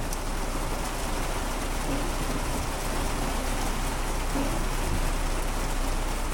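Heavy rain pouring steadily onto a parked car's roof and windows, heard from inside the car.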